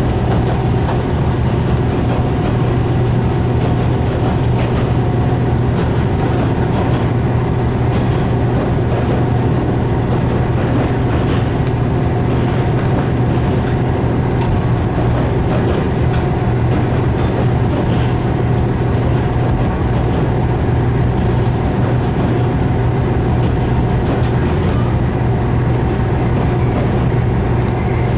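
Diesel railcar running on the line, a steady low engine drone over constant rail rumble, with a few faint clicks.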